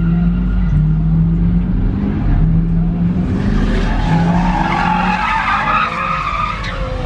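A car engine running steadily, then a car's tires screeching from about three seconds in until near the end.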